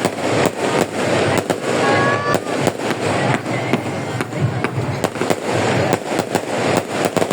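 Fireworks going off: a run of sharp bangs and crackles at an uneven pace, over a steady din of background noise.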